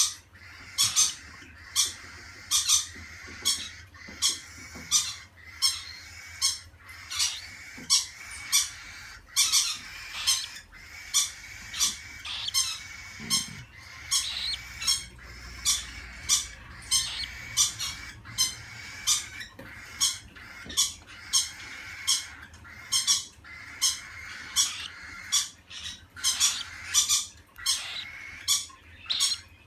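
Pet cockatiels squawking: short, shrill calls repeated steadily, a little more than one a second.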